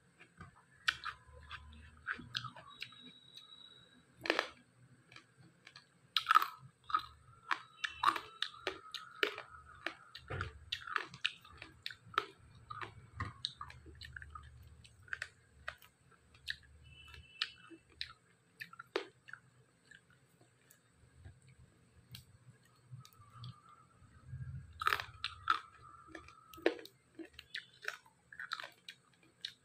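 Close-up mouth sounds of a person eating dry-fried pork and cucumber: irregular bites, crunches and wet chewing clicks. They come thickest from about six to fourteen seconds in and again around twenty-five seconds.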